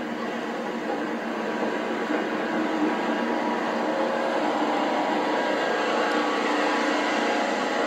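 Passenger train coaches rolling past close by: a steady drone of wheels and running gear on the rails, growing slightly louder partway through.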